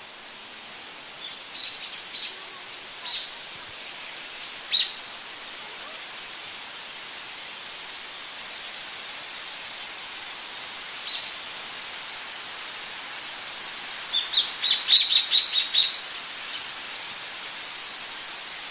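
Birds chirping: short high calls every second or so, then a quick run of about eight louder chirps about three-quarters of the way through, over a steady background hiss.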